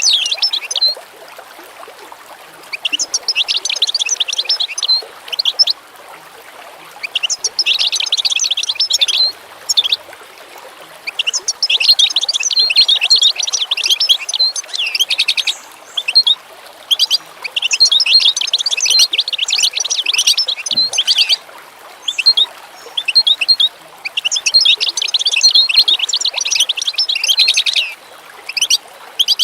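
Songbird singing in repeated bouts of rapid, high twittering chirps, each bout lasting one to four seconds with short pauses between, over a faint steady background hiss.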